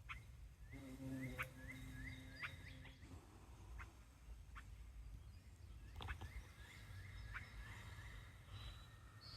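A bird calling in two quick runs of short rising chirps, about four or five a second, with scattered light clicks.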